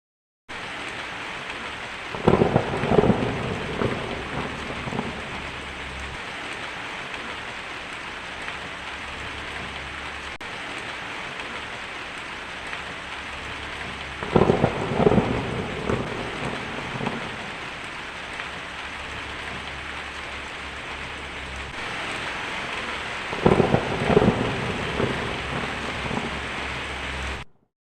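Steady rainstorm hiss with three peals of thunder, each a cluster of cracks rolling off over a few seconds: about two seconds in, about halfway, and near the end. The rain cuts in abruptly at the start and cuts off abruptly at the end.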